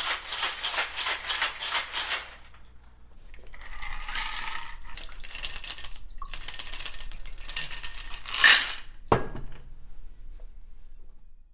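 Percussion shaker being shaken: quick rhythmic shakes, about five a second, for the first two seconds, then a longer continuous rattle, ending in a sharp click.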